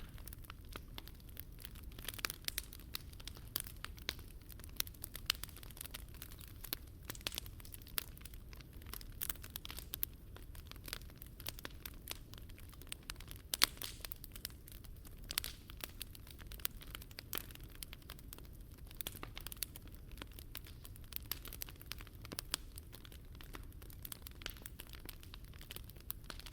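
Wood fire crackling in a Picogrill 398 fire stand: a steady run of irregular sharp crackles and pops, with one louder pop about halfway through.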